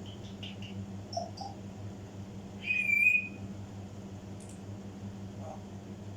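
African grey parrot vocalizing: a few short high chirps, then one loud, short whistle about three seconds in, with fainter calls after it. A steady low hum runs underneath.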